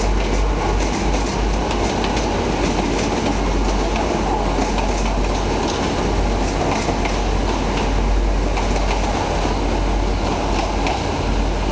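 Regional TER multiple-unit train running past on the tracks: a steady rumble with frequent clicks of the wheels over the rail joints.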